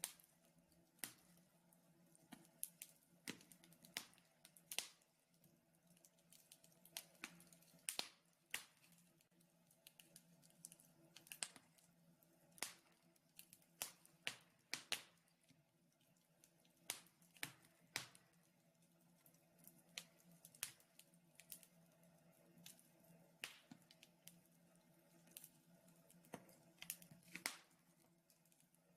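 Wood fire in a fireplace crackling, with irregular sharp pops of the burning logs, about one or two a second, over a faint steady low hum.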